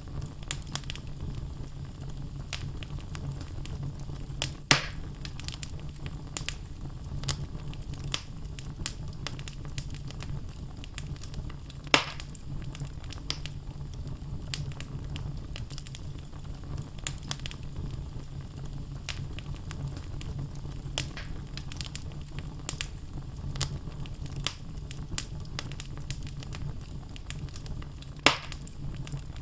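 Wood fire burning in a fireplace: a steady low rumble of flames under frequent small crackles from the logs, with three louder sharp pops about five seconds in, at twelve seconds and near the end.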